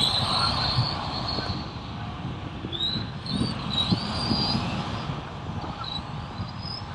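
Electric motors of 1/10-scale RC Euro race trucks whining as they pass on the track, the high whine rising and falling in pitch.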